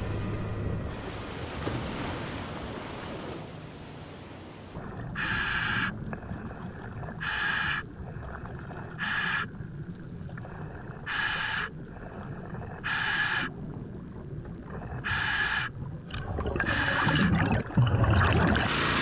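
Diver breathing through a surface-supplied diving regulator underwater: short hissing breaths with a faint whistle, about one every two seconds. Before them, a rumbling wash of water and surf.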